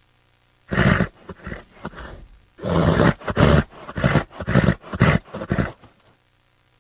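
A large animal calling loudly: one call about a second in, then a long call followed by a string of shorter calls, each about half a second apart, stopping just before the end.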